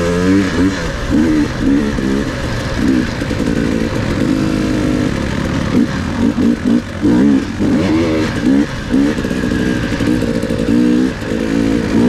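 Dirt bike engine being ridden, revving up and down in short repeated bursts of throttle.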